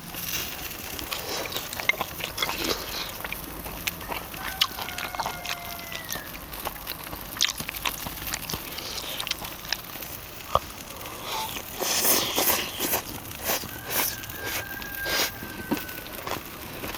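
Eating sounds from charcoal-grilled duck: chewing and biting, with scattered sharp crunches and clicks that grow denser and louder a little past the middle. A few faint thin whistling tones come and go.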